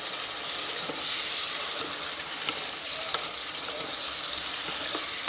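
Pork and banana peppers sizzling as they are stir-fried in a pan, with a spatula clicking and scraping against the pan now and then.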